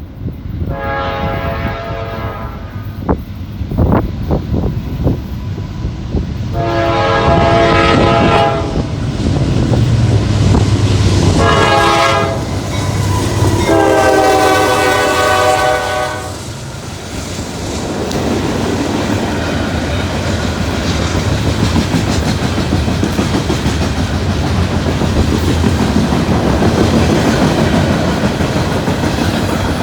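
Diesel locomotive horn on a fast loaded Norfolk Southern coal train sounding four blasts, long, long, short, long: the standard grade-crossing signal. About halfway through, the horn gives way to the loud rumble and wheel clatter of the loaded coal cars passing close by.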